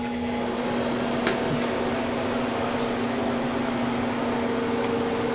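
Harvest Right freeze dryer's refrigeration unit starting up for pre-cooling, its compressor and fan coming up to a steady hum within the first second and then running evenly, with a light tick about a second in.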